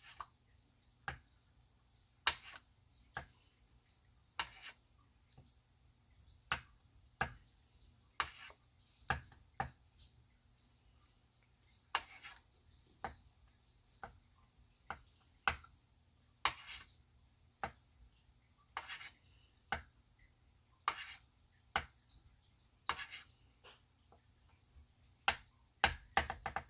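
Irregular small sharp clicks and taps, about one a second, some with a short spitting hiss, from work with a bottle of white alcohol ink on the painting surface, where the ink is coming out as bubbles.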